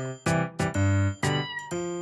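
A British Shorthair kitten gives one falling meow, under loud background music with evenly repeated notes.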